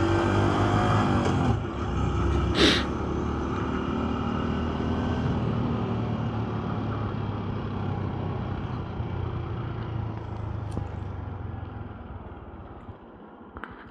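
Honda motorcycle riding with engine and wind noise; the engine note drops about a second and a half in. A short, sharp hiss follows a moment later, then steady road noise that grows quieter near the end.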